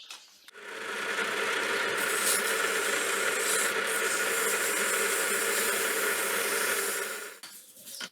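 Small lathe running with sandpaper held against the spinning workpiece for final finishing: a steady hiss over the motor's hum. It starts about half a second in and fades out near the end.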